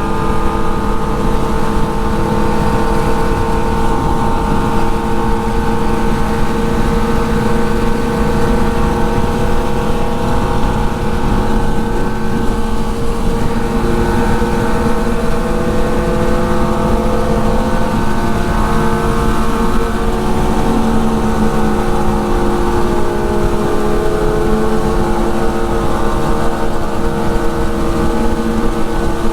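Motorcycle engines running at a steady cruise with no hard acceleration, several engine tones held nearly level over a constant rumble of wind and road noise.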